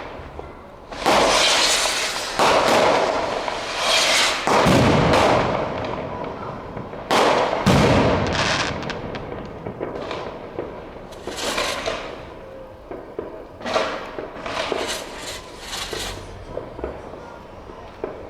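Fireworks going off: several loud bangs in the first eight seconds, then a run of shorter, sharper cracks and pops.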